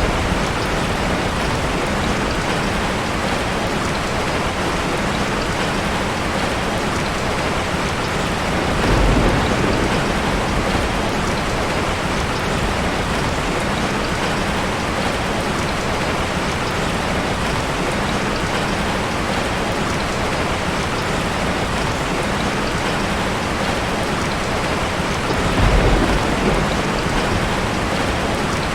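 Heavy rain falling steadily. Two low rumbles of thunder rise out of it, about nine seconds in and again near the end.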